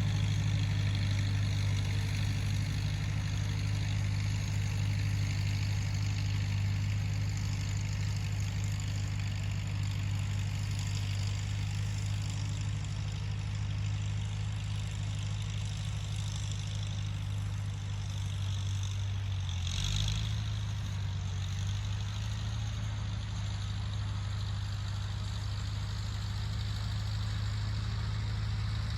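Tractor engine running steadily with an even low drone, and a short clunk about two-thirds of the way through.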